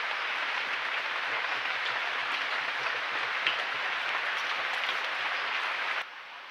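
A steady, dense crackling hiss, like rain on foliage, which cuts off suddenly near the end, leaving a much quieter background.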